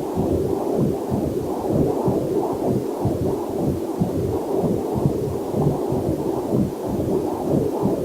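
Whooshing, rhythmic heartbeat pulse picked up through a fetal Doppler heart monitor, about two beats a second, with a faint waterfall hiss mixed in underneath.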